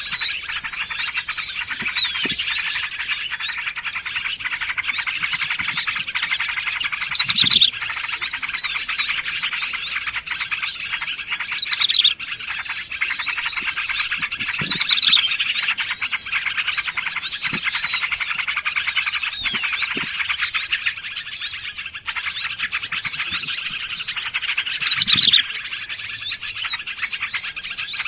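A dense, unbroken chorus of small songbirds calling over one another, a bird-lure mix of yellow-vented bulbul chatter and prinia calls with other small forest birds. Rapid high chattering runs throughout, with a falling whistled note cutting through every few seconds.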